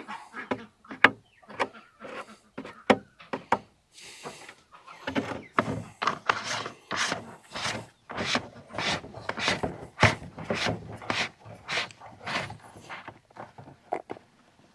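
Hand work on a plastic feed bucket: a few scattered knocks, then a steady run of rubbing, scraping strokes, about two to three a second, that stops near the end.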